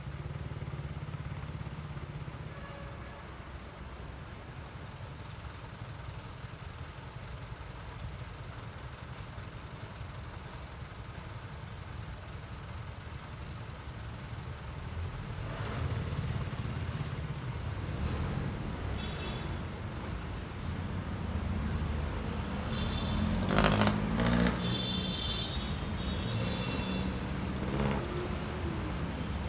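Honda ADV 150 scooter's single-cylinder engine running on the road, with wind rumble on the microphone. It grows louder about halfway through, and in the last part the engine note rises and falls with the throttle.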